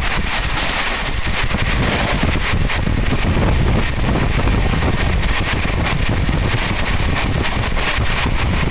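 Express passenger train running at speed, heard from inside a coach: a steady, loud rush of wind buffeting the microphone over low rail and wheel noise.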